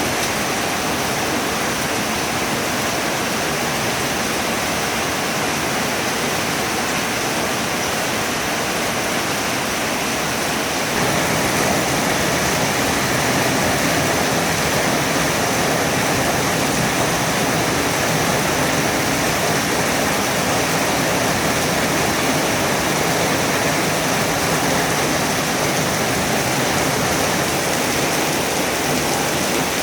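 Heavy rain falling steadily as an even, loud hiss, growing a little heavier about 11 seconds in.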